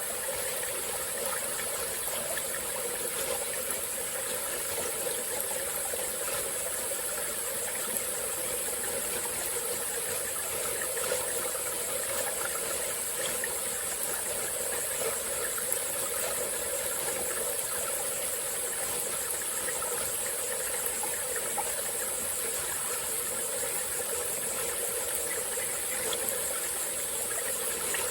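Small tropical-forest stream flowing steadily over rocks, with a constant high-pitched drone of insects.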